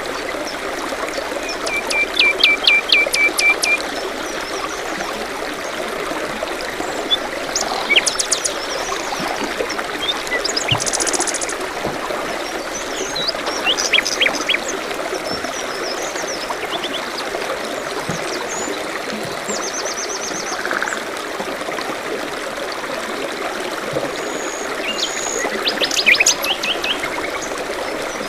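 Forest songbirds chirping and calling over a steady trickle of running water. There is a quick run of repeated chirps about two seconds in, a high rapid trill near the middle and another burst of calls near the end.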